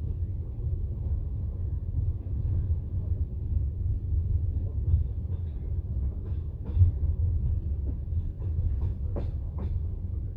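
Passenger train running, heard from inside the carriage: a steady low rumble of the wheels on the track, with a few sharp clacks of the wheels over rail joints in the second half.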